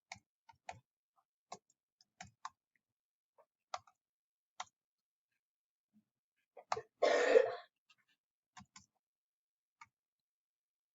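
Scattered light clicks and taps, a dozen or so spread irregularly, with one short cough about seven seconds in.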